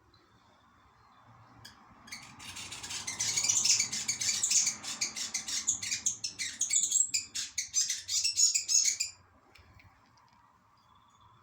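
A fantail chirping, a fast run of short high chirps that starts about two seconds in and stops about nine seconds in.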